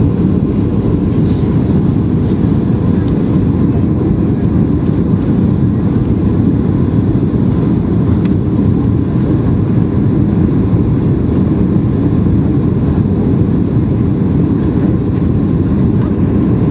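Steady cabin roar inside a Boeing 737-800 on final approach, the noise of its CFM56 turbofans and the airflow past the fuselage, heavy in the low range with a faint steady high tone above it.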